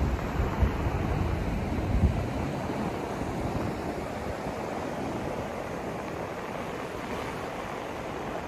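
A steady rushing white-noise hiss, weighted toward the low end, with two brief low rumbling swells in the first two seconds.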